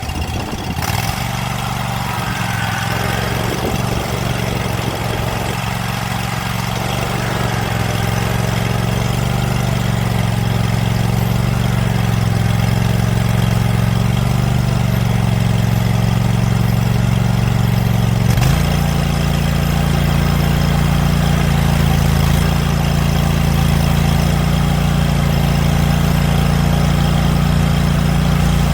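Scag Patriot zero-turn mower's engine running steadily, its pitch stepping up slightly about two-thirds of the way through. It is being run to check the Hydro-Gear ZT-3100 hydrostatic wheel motors after an oil change and air bleed.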